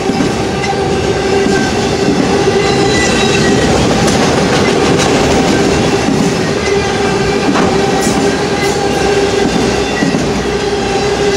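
Freight train of autorack cars rolling past: a loud steady rumble of steel wheels on rail with a continuous ringing squeal from the wheels, and a few sharp clicks near the middle.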